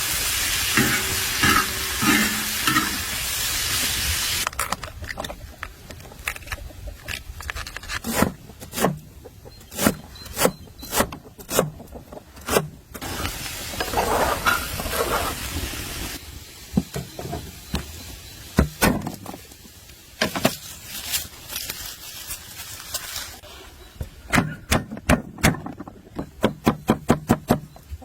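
Food sizzling in a frying pan while it is stirred, cutting off abruptly after a few seconds. Then come scattered sharp knocks and taps, turning into a quicker run of knocks near the end.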